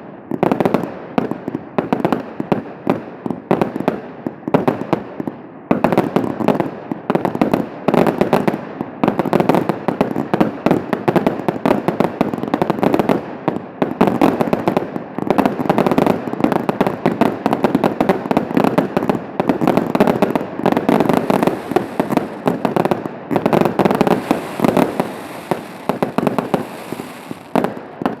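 Fireworks display at full intensity: a dense, continuous barrage of shells and cakes bursting in rapid overlapping bangs and crackles, almost without a gap.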